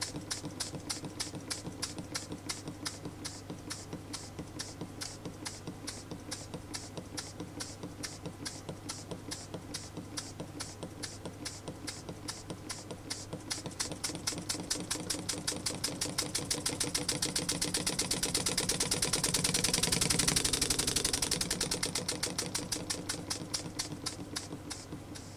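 Model single-cylinder oscillating engine running on compressed air, with a rapid, even ticking of exhaust puffs. It speeds up and grows louder from about halfway, is fastest around three-quarters through, then slows again near the end.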